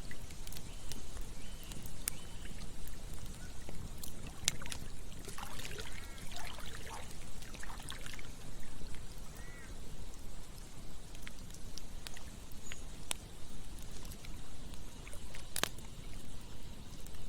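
Campfire crackling with scattered sharp pops over the steady rush of running water. A burst of short animal calls comes about five to eight seconds in.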